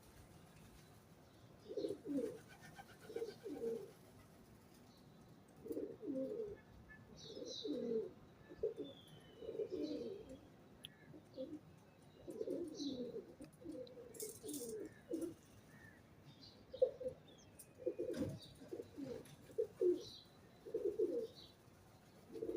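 Pigeons cooing, one low cooing phrase after another every second or two, with faint high chirps of small birds in between.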